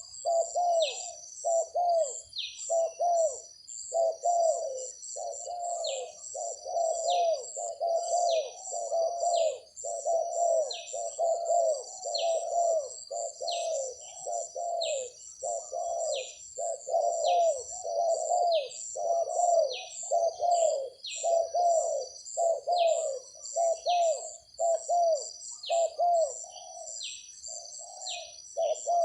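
Spotted doves cooing over and over, note after note with hardly a gap, with short high falling chirps about once a second and a steady high pulsing drone behind them.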